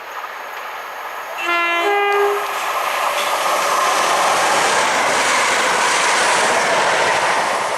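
Class 170 Turbostar diesel multiple unit sounds its two-tone horn about a second and a half in: a short low note, then a higher one. It then passes through non-stop at line speed, and the steady rush of the train and its wheels on the rails lasts until near the end.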